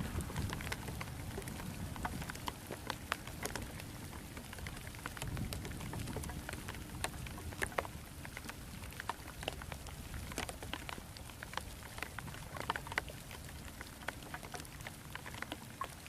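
Heavy rain falling steadily, with many sharp drop ticks landing close by.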